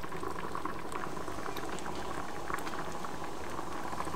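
Thick red sauce bubbling in a frying pan on the hob, a steady stream of small pops and crackles.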